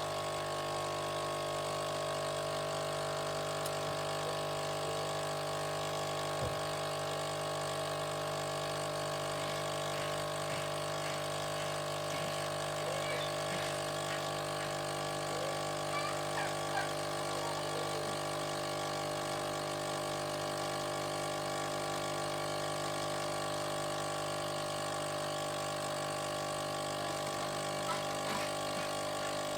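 A steady mechanical hum made of several fixed tones, unchanging in pitch and level.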